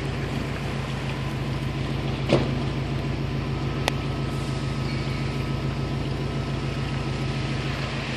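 Subaru Impreza GC8's flat-four engine idling steadily with an even low pulsing. Two sharp clicks, about two and four seconds in.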